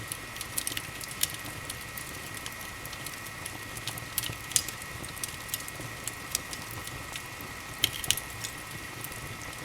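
Wood fire in a fireplace crackling: irregular sharp pops and snaps over a steady hiss, with a few louder pops about four and a half and eight seconds in. A faint steady high whine runs underneath.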